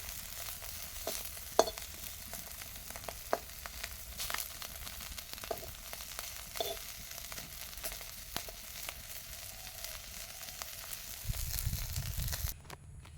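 Small fish frying in hot oil, sizzling steadily, with scattered clinks of a utensil stirring or turning them in the pan. Near the end a low rumble comes in and the sizzling cuts off suddenly.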